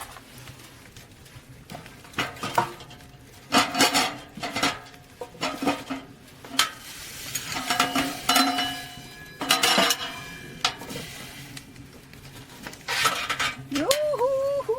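Metal pots and utensils clinking, knocking and scraping in irregular bursts, some strikes ringing briefly. Near the end, a wavering, pitched whine begins.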